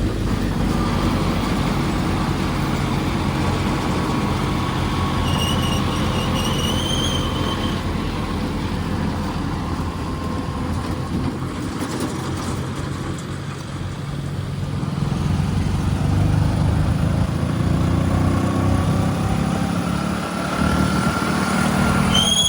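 Heavy diesel machinery engines running steadily, growing louder about two thirds of the way in. Short high squeals sound about a quarter of the way in and again at the very end.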